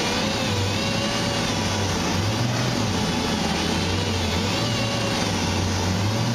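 Dual-action (DA) sander running against body filler and welded sheet metal on a truck panel: a steady hiss with a whine that wavers up and down in pitch as the pressure on the pad changes.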